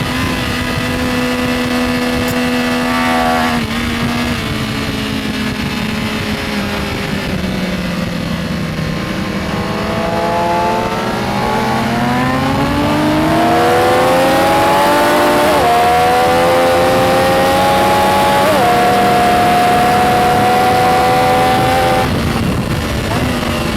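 Benelli Tornado Tre 900's inline three-cylinder engine at track speed: the engine note holds, then falls as the revs drop, then climbs hard with two quick upshifts about two thirds of the way through, and drops off near the end as the throttle closes.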